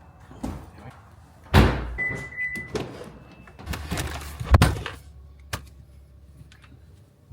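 Doors being opened and shut, with two solid thuds about a second and a half and four and a half seconds in, smaller knocks and clicks between, and a short single-pitched beep about two seconds in.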